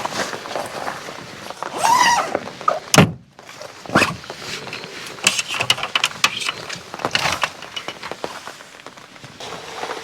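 Irregular knocks and thumps, the loudest about three and four seconds in, with a short pitched sound near two seconds.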